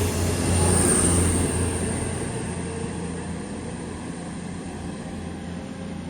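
A CrossCountry Voyager diesel train running into the platform. Its engine hum and a high whine are loudest in the first second or two, then die down steadily as it slows.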